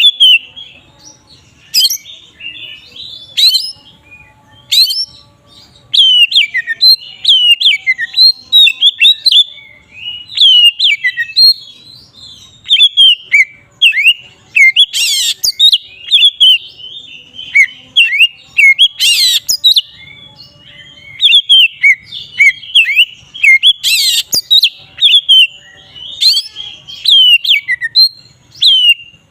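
Oriental magpie-robin (kacer) singing a long, unbroken 'ngeplong' song: a quick run of varied whistled and chattering notes, with loud sharp notes breaking in every few seconds.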